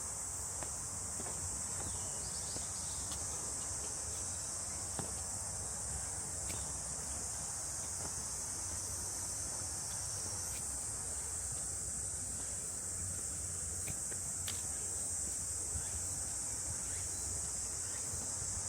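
Steady, high-pitched buzzing chorus of insects, unbroken throughout, with a few faint clicks.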